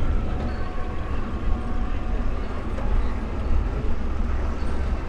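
Cadillac hearse's engine running as the hearse pulls slowly away across the grass: a steady low rumble with a faint hum.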